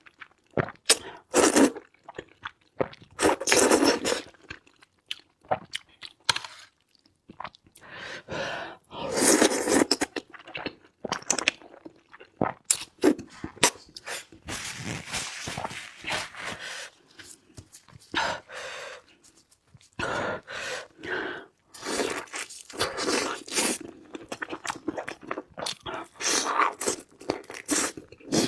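Close-miked chewing and crunching of food in a mukbang, a long run of irregular bites and mouthfuls with short pauses between.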